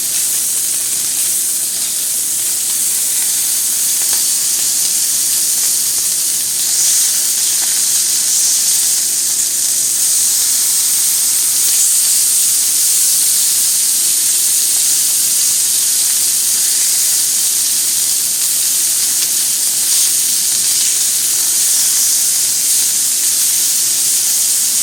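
Meat sizzling steadily on a Korean barbecue grill, a constant high hiss.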